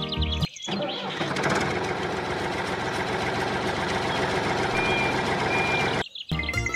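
Motor running steadily as the miniature toy tractor drives, starting about half a second in and cutting off near the end, with two short high beeps shortly before it stops. Background music plays briefly at the start and again at the very end.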